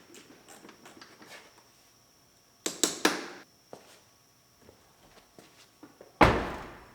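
Buick Regal car door being handled and closed: light clicks, a couple of sharp knocks about three seconds in, then the door shutting with one loud slam near the end.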